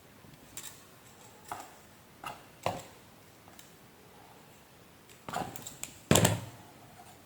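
Scattered clicks and knocks of hard parts being handled and fitted as a vacuum cleaner is put back together. The loudest is a knock with a brief rattle about six seconds in.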